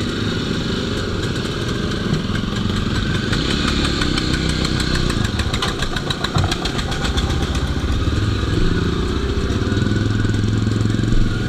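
Jawa and Yezdi motorcycle engines running at low speed and idling as the group of bikes rolls in, with a fast light ticking for a few seconds midway.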